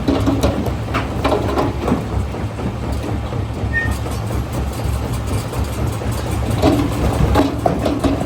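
Primary jaw crusher working on rock: a steady low drone from the machine, with irregular knocks and cracks of stone being crushed, heavier in the first couple of seconds and again near the end.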